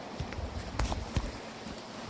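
A few knocks and low thumps over the steady rush of a mountain stream, the loudest about a second in.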